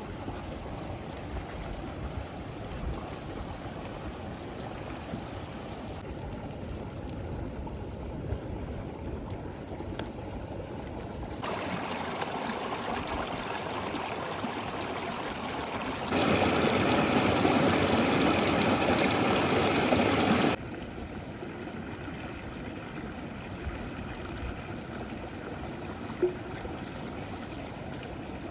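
River water flowing steadily. The level jumps up or down abruptly several times, and is loudest for about four seconds past the middle.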